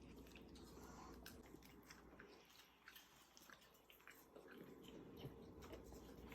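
Near silence with faint chewing: scattered small clicks and mouth sounds of someone eating.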